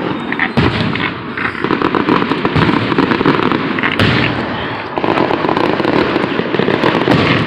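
Fireworks display: a continuous barrage of crackling and popping bursts, with sharper bangs about half a second in and about four seconds in.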